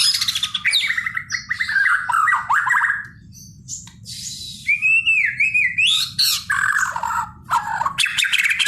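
White-rumped shama singing in full, vigorous song: a rapid string of varied phrases, with fast trills, clear whistled glides and harsh buzzy notes, broken by short pauses, over a low steady background hum.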